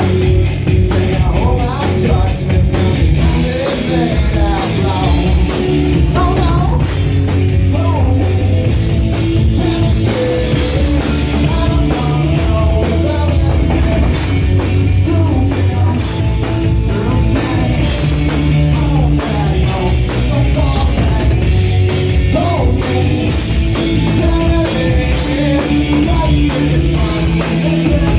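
A rock band playing live, with distorted guitars, a drum kit and a singer's voice over them.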